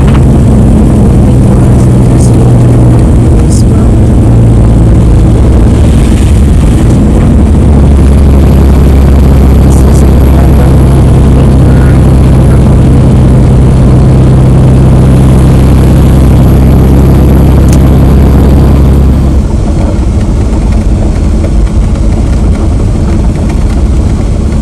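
Heavy truck's engine running with road noise, a loud steady low drone. It grows stronger and deeper about eight seconds in, then drops off suddenly about nineteen seconds in as the engine eases.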